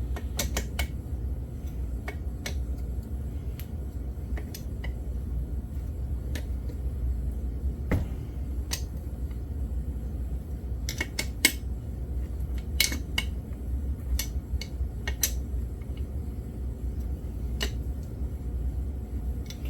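Hand tools clinking and tapping against metal as the bolts on a YZ80 engine's cases are snugged down: scattered single clicks at irregular intervals, over a steady low hum.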